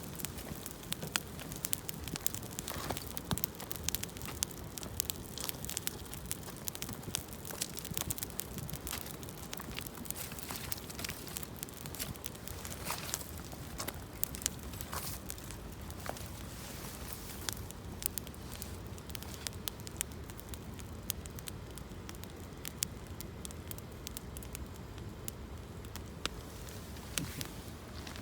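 Campfire of gathered branches crackling, with frequent irregular sharp pops over a steady hiss.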